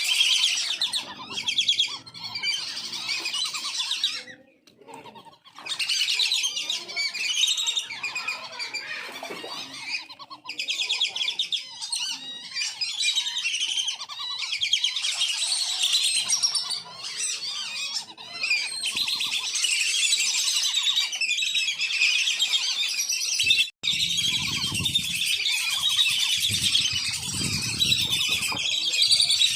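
A flock of wandering whistling ducks calling together: a dense, continuous chatter of high twittering whistles. There is a short lull about four seconds in and an abrupt break shortly before the end, after which a low rumble sits under the calls.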